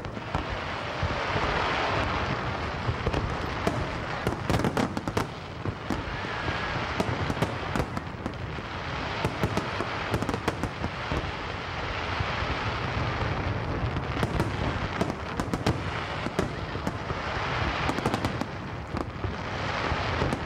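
A fireworks display: many sharp bangs from bursting aerial shells, some coming in quick clusters, over a continuous noisy background.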